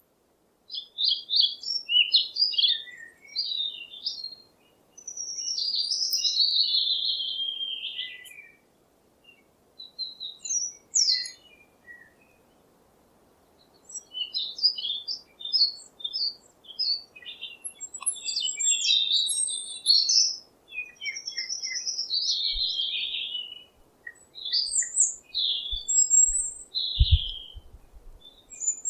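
Songbirds singing and chirping in quick, warbled phrases broken by short pauses, with a few low bumps near the end.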